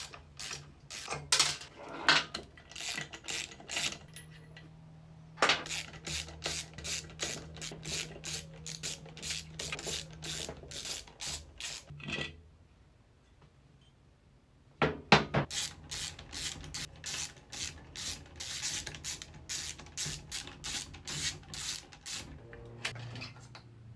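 Hand tools working on the metal of a seized Yamaha KT100 two-stroke kart engine as it is taken apart, with repeated quick clicks like a ratchet wrench and scraping. The sound stops for about two seconds just past the middle, then the clicking resumes.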